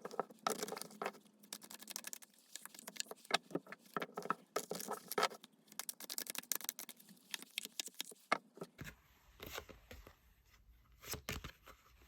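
Tarot cards being shuffled and handled by hand: a dense patter of card clicks and slides, thinning after about nine seconds to a few separate clicks over a faint low hum.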